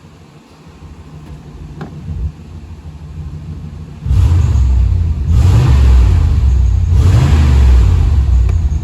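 1993 Chevy Suburban's 5.7-litre 350 V8 running at idle, then revved up sharply about halfway through and kept at high revs, with a couple of brief dips.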